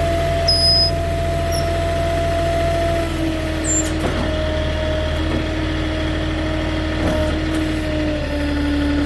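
Moffett truck-mounted forklift's engine running with a steady hydraulic whine as the hydraulics work under load. The whine drops a little in pitch in small steps, with a few light clicks in between.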